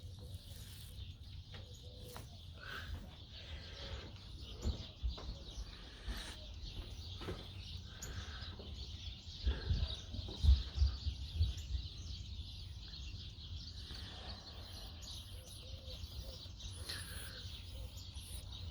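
Outdoor ambience with faint bird chirps now and then over a steady background hiss. A cluster of low rumbles and thumps comes about halfway through.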